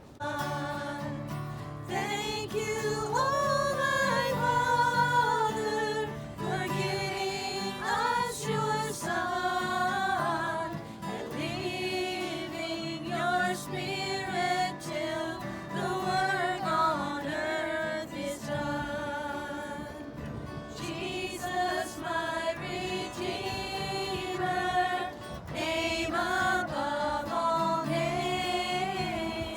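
Voices singing a gospel hymn together, with instrumental accompaniment.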